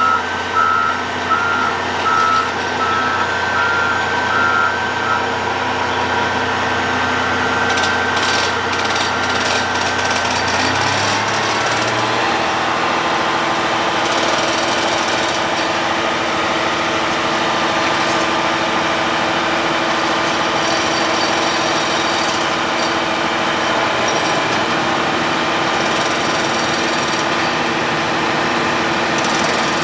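Diesel engine of a road planer running steadily at road works, with a reversing alarm beeping for the first few seconds. There is a short patch of knocks and clatter, and about eleven seconds in the engine note changes and then holds steady.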